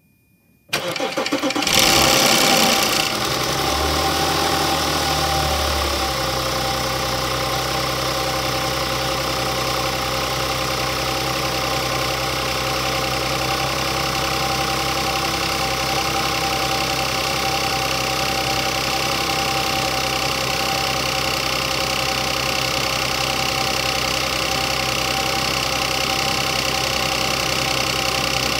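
Car's V engine cranked by the starter and catching within about a second, revving up briefly, then settling by about six seconds in to a steady idle. The engine has a newly replaced bank 2 timing chain tensioner.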